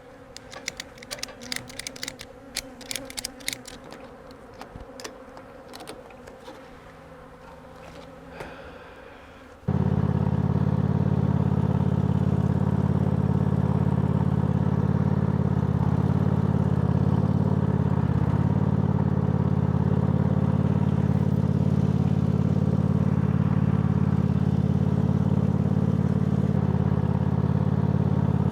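Bees buzzing around a series of sharp clicks and clatters as a load of honey supers is strapped down. About ten seconds in, a vehicle engine comes in abruptly and runs steadily and loudly to the end, as the load is driven away.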